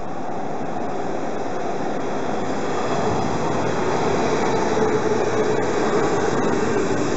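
Orange JR Osaka Loop Line electric commuter train running alongside the platform. Its wheel and running noise grows steadily louder as the cars come alongside, with a few faint clicks in the second half.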